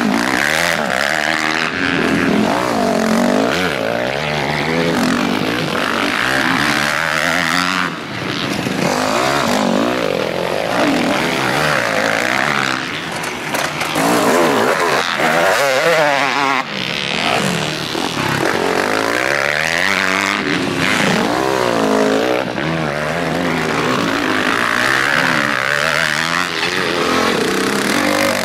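Several motocross bikes racing, their engines revving up and down as they accelerate and shift, the sounds overlapping.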